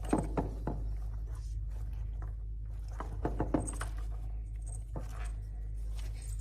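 Steady low electrical-sounding hum with a few faint scattered taps and knocks.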